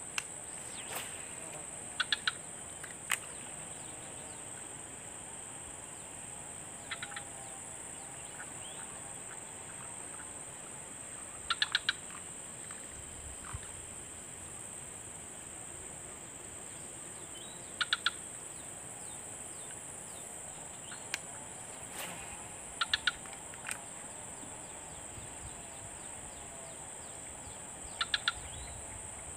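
Steady high-pitched insect drone, with a bird calling in short bursts of three or four quick notes every five seconds or so. A few single sharp clicks in between.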